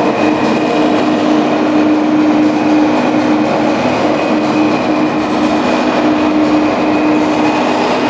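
A vehicle running steadily with a constant hum over a dense rumble, without breaks.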